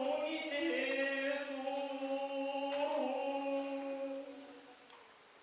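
A single voice chanting a kagura verse in long, drawn-out held notes, trailing off near the end.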